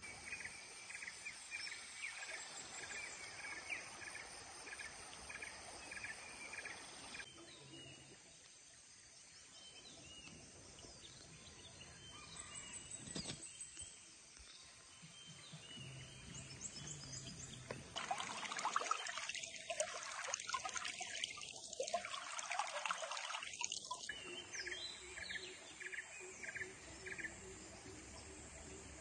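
Outdoor forest ambience at a waterfall stream: running water under a small animal's repeated chirping call, about two chirps a second, at the start and again near the end. The water noise swells louder for several seconds past the middle.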